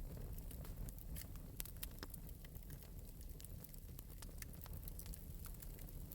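Wood fire burning in an open metal fireplace, crackling lightly with irregular small pops over a low steady rumble.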